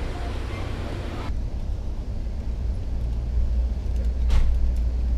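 Steady low rumble inside a moving passenger train car, with a single sharp knock about four seconds in. It comes after a second or so of open-air station platform noise that cuts off abruptly.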